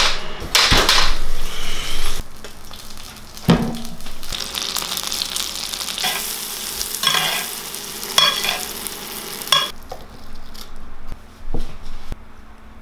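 Salmon fillet frying in foaming butter in a cast-iron skillet, sizzling, with repeated spoon strokes as the butter is basted over the fish. The sizzle drops away about ten seconds in, leaving a few light clicks.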